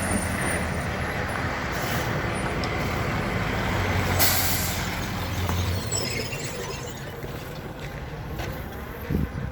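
A steady low engine rumble under a wash of noise, with a short, loud hiss of air about four seconds in.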